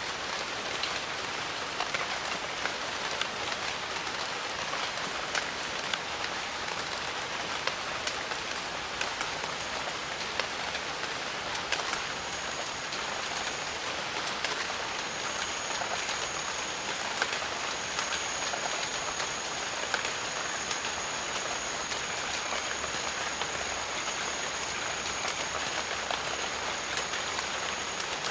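Steady jungle rain falling, an even hiss with individual drops clicking close by. From about halfway through, a thin, steady high-pitched whine joins in and holds.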